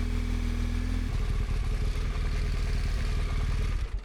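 Motorcycle engine idling, its low steady note changing about a second in, then switched off just before the end, so the sound stops abruptly.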